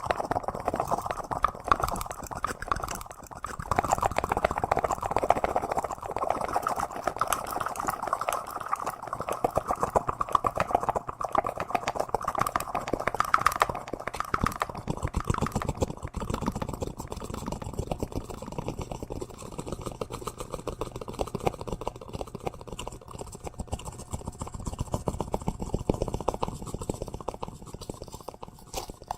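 Close-miked ASMR trigger sounds: a dense, continuous run of rapid small clicks and crackles, a little sparser in the second half.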